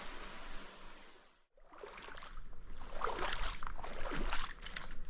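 Stream water splashing and sloshing, with irregular stronger splashes in the second half. The sound cuts out briefly about a second and a half in.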